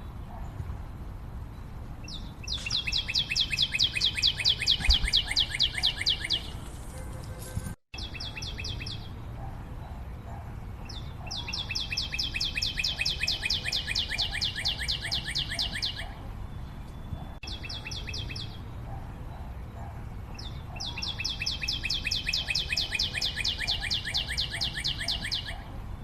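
A bird singing a long, rapid, high trill, repeated three times with short chirps between.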